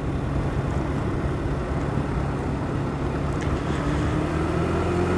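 Motorcycle engine running at a steady speed while riding, with wind rushing over the helmet-mounted microphone; the engine note rises slightly near the end.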